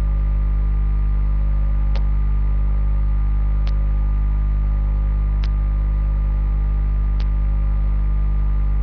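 Loud steady electrical mains hum picked up by the webcam's recording, with a faint sharp click repeating evenly about every second and three-quarters.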